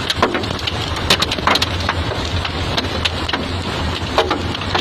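Hail falling with heavy rain: irregular sharp clicks of hailstones striking hard surfaces over a steady rushing noise and a low rumble.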